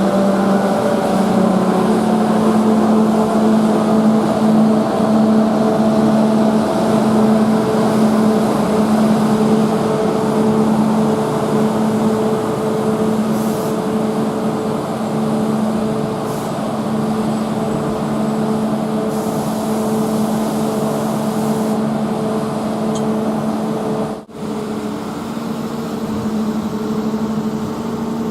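Train at a station platform, running with a steady hum made of a low and a middle tone. A higher tone slides down over the first couple of seconds. The sound cuts out for a moment about 24 seconds in.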